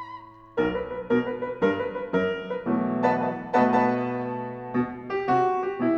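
Piano playing a jazz-style instrumental interlude: struck chords begin about half a second in and follow one another roughly twice a second.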